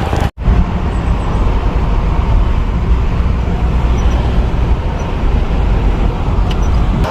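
Steady low road rumble inside a moving car, cut off for an instant about a third of a second in and then carrying on.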